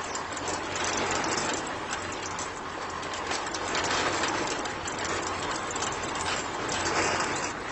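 Steady mechanical clattering with dense, rapid clicks, as from a small geared mechanism running continuously.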